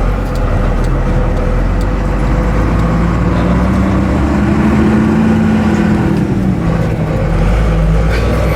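Turbo-diesel truck driving, its engine giving a steady low rumble; in the middle an engine tone climbs and then drops back as the engine speeds up and eases off.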